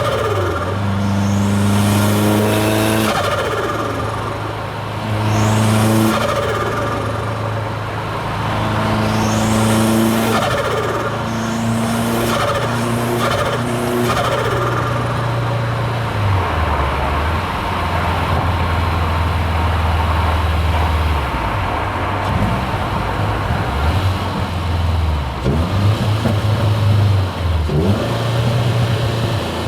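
Turbocharged Subaru WRX STI flat-four engine heard from inside the car. Over the first half it pulls hard several times, each pull with a rising turbo whine and changes in engine pitch. It then settles into steadier, lower running, with uneven rises and drops in revs near the end.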